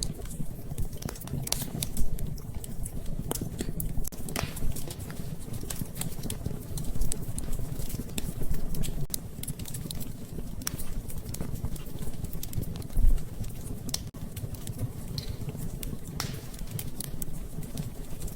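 Wood fire crackling in a fireplace: irregular sharp pops and snaps over a low steady rumble, with a louder low thump about two seconds in and another near thirteen seconds.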